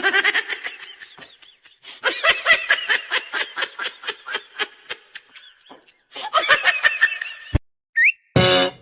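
A person laughing in three fits of rapid, repeated bursts, each fit trailing off. A sharp click and a short high chirp follow near the end.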